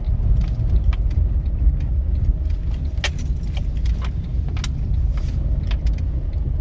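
Inside a 2011 Honda Fit driven slowly over a patched road: steady road rumble with scattered light clicks and knocks from the front suspension, one louder knock about three seconds in. This is the chronic Honda Fit front-end noise, still there after the shock absorbers were replaced, with its cause not yet diagnosed.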